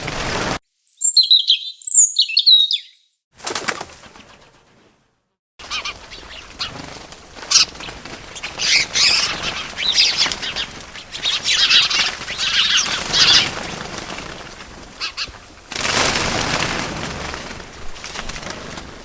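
Small birds' wings flapping in short fluttering bursts, with a few quick high chirps about a second in. The bursts start and stop abruptly, with stretches of dead silence between them.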